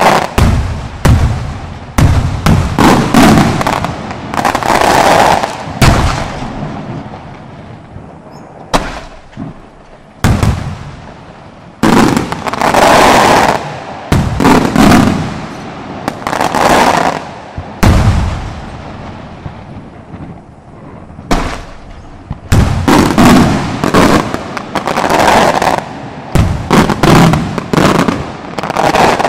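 Aerial firework shells and saluts bursting in quick volleys, sharp loud bangs with crackling between them, pausing briefly twice.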